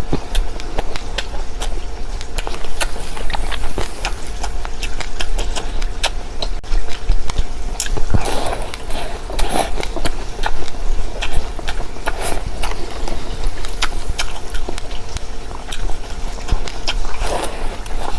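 A person chewing and crunching seeds close to the microphone: many sharp crackling clicks, with a steady low hum underneath.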